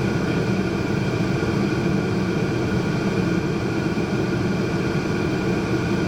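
Steady mechanical drone, a constant low rumble with a faint hum of fixed tones above it, such as a vehicle cabin or air-conditioning fan running.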